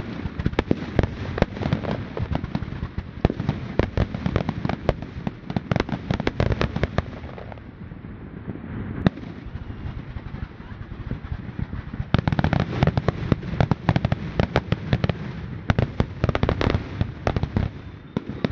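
Fireworks going off in rapid volleys of sharp bangs and crackles. The volleys ease off for a few seconds in the middle, with one lone bang, then start again densely.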